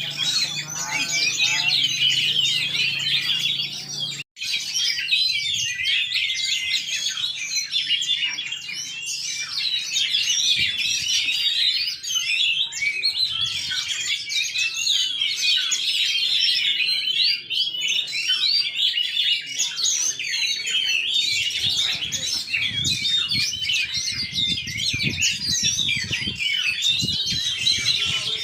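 Many caged songbirds singing at once in a dense, overlapping chorus of chirps and trills that never lets up, the sound of a full line of contest birds hung side by side.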